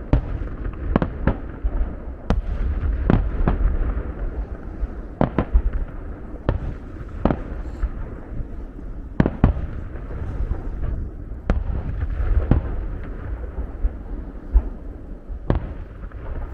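Aerial fireworks bursting: over a dozen sharp bangs at irregular intervals, one every second or so, over a continuous low rumble of launches and echoing reports.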